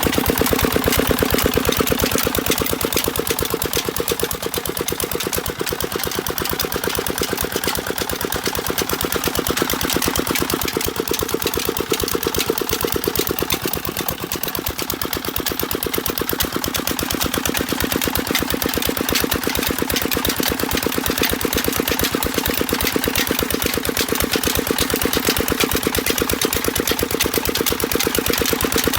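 Single-cylinder 'Peter' diesel engine running steadily with a rapid, even beat, under load driving a water pump that is lifting water up to a tank.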